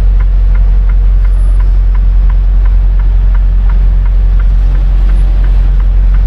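Semi truck's diesel engine running with a steady low hum, heard from inside the cab, with a light, even ticking about three times a second over it.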